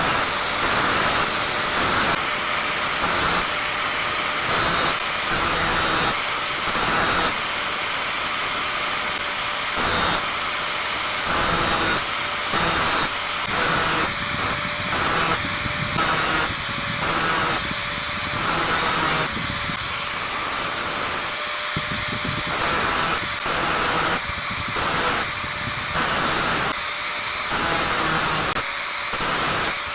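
Electric angle grinder running and grinding the teeth of a hand saw in a string of short passes, tooth after tooth, over a steady motor whine.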